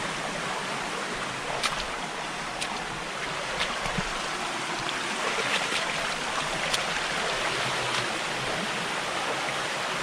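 Steady rush of a forest stream and waterfall, with a few faint short clicks scattered through it.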